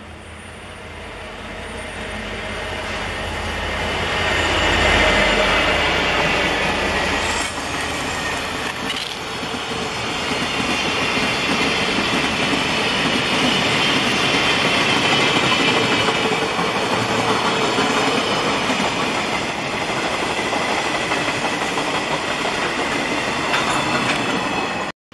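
Diesel-hauled freight train passing close by: a deep locomotive rumble as the engine goes past in the first seconds, then a long run of flat and open wagons rolling by with steady wheel-on-rail clatter and some squeal. The sound cuts off abruptly near the end.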